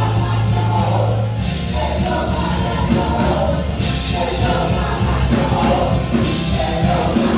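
Gospel music with a choir singing over a band with steady bass and cymbals.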